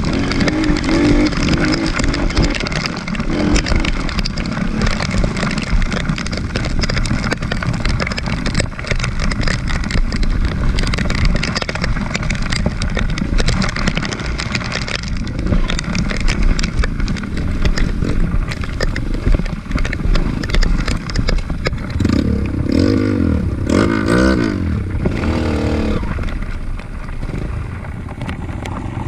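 Off-road trail motorcycle engine running under load with clattering, its revs swinging up and down a few times near the end.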